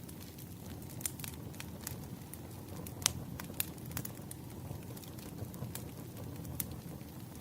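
Wood fire burning, with a steady low rumble and irregular sharp crackles and pops, the loudest a little past three seconds in.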